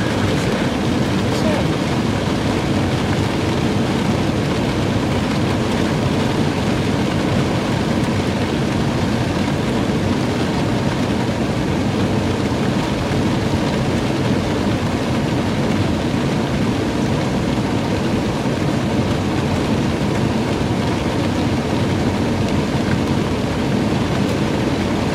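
Steady noise inside a Jeep's cabin: the air conditioning blowing with the engine running, and rain falling on the vehicle.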